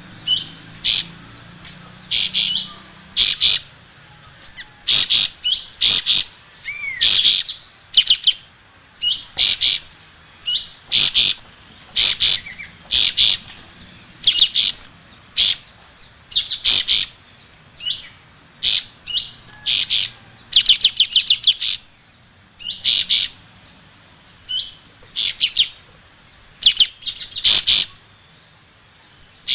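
Kapas tembak bulbul singing: loud, rapid chattering phrases of quick high notes, about one phrase a second with short pauses between.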